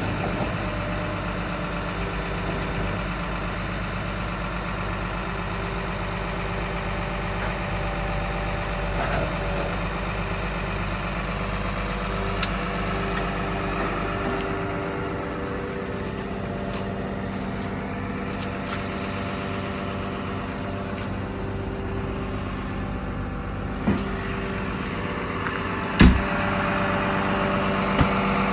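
Komatsu D61PXi-24 bulldozer's diesel engine idling steadily. Its low hum shifts about halfway through, and there are two sharp knocks near the end.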